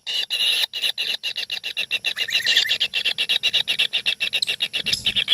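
Noisy chorus of several nestling birds calling from inside a nest hole: an unbroken run of short, high-pitched calls, about eight a second.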